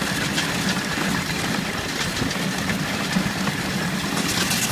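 Miniature Ruston Proctor steam traction engine running on the road: a steady mechanical running noise.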